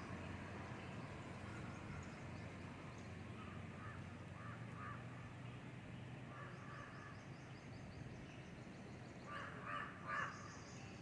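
Crows cawing: faint caws through the middle, then two louder caws near the end. Small birds chirp high and quick in the background over a low steady hum.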